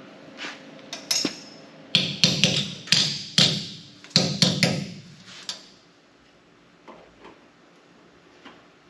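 Hammer striking a sheet-metal cab-corner patch panel: a few light taps, then about ten quick blows that ring, over some three and a half seconds, followed by a couple of faint knocks.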